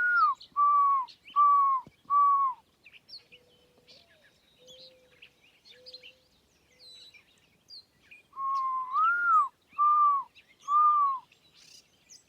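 A person whistling an imitation of a bird call: two loud phrases of four or five notes, the first note sliding up and the rest falling off. Between them a bird answers more softly and lower, in the same rhythm. Faint chirps of other birds run throughout.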